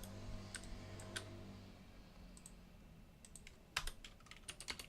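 Computer keyboard typing: a few scattered keystrokes, then a quick run of keystrokes near the end.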